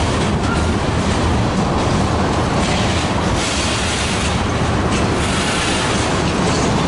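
Train cars rolling past, a steady loud rumble of wheels on the rails.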